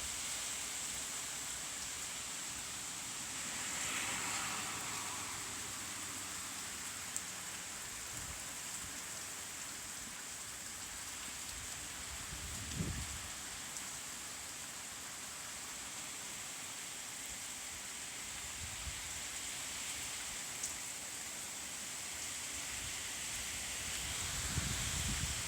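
Steady wind-driven rain from Hurricane Michael, swelling louder for a moment about four seconds in, with a single low thump about halfway through.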